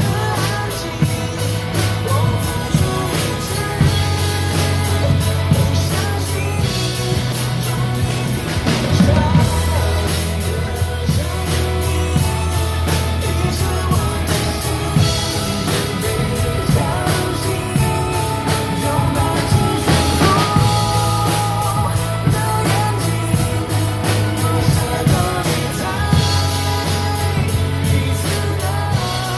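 Drum kit played along to a backing track of a pop song with a sung vocal, bass and guitar, a steady beat throughout.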